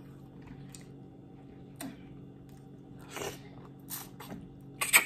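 Close-miked wet chewing and mouth smacks from someone eating boiled crawfish: a few short, sharp smacks spaced about a second apart, more of them near the end, over a low steady hum.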